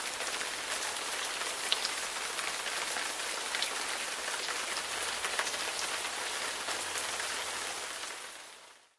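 Freezing rain falling: a steady hiss of rain with many small ticks of drops and ice striking hard surfaces, fading out near the end.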